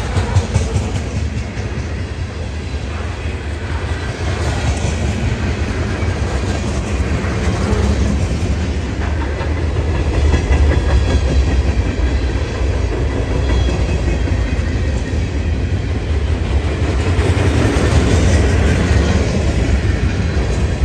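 Freight train cars rolling past: a steady heavy rumble with the clickety-clack of wheels over the rails.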